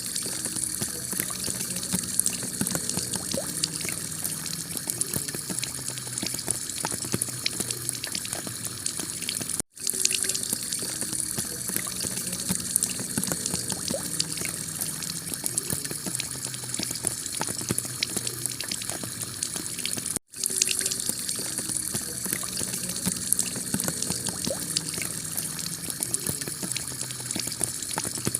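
Heavy rain pouring onto a clay-tile roof: a steady, dense patter. It cuts out for an instant twice, about ten seconds apart, where the recording loops.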